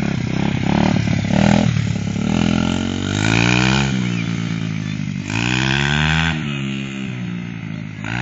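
Dirt bike engine running under throttle, its pitch climbing twice as it revs up and then falling back as the throttle eases off.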